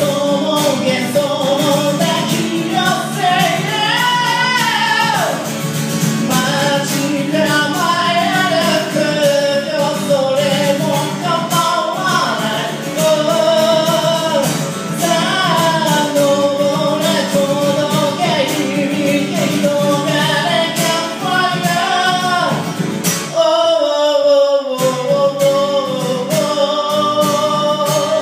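A solo singer-songwriter singing a melody over their own strummed acoustic guitar. Around 24 seconds in, the strumming stops for about a second while the voice holds on, then picks up again.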